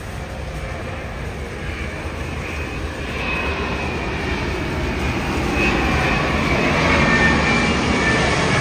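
Jet airliner's engines growing steadily louder as the plane approaches, with a high whine over the noise.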